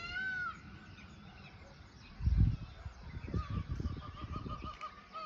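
Indian peafowl (peacock) giving one arched, wailing call at the start. A low thump follows about two seconds in. Then comes a quick run of short, repeated high bird notes for about two seconds.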